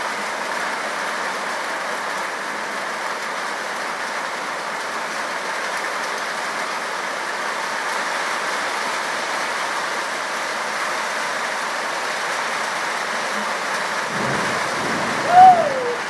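Steady rain falling, an even hiss. Near the end a low rumble comes in, and a short, loud tone slides up and then down in pitch.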